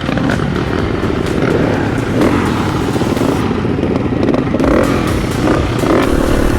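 Motorcycle engine running, with frequent short knocks and rattles over it; the engine grows a little louder about four and a half seconds in.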